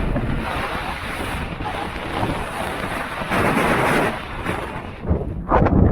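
Strong blizzard wind buffeting the microphone, with loud gusts about three and a half seconds in and again near the end.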